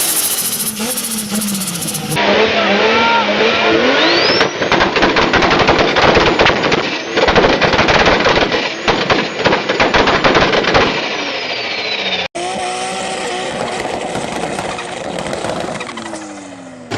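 Turbocharged car engines revving, with rapid popping and banging from anti-lag in the middle section. The sound changes abruptly twice as separate clips are cut together.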